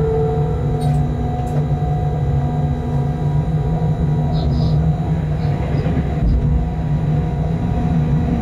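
Steady rumble and electric hum inside an electric freight locomotive's cab while running. About five seconds in, a rush of noise and a low thump mark an oncoming freight train passing on the next track.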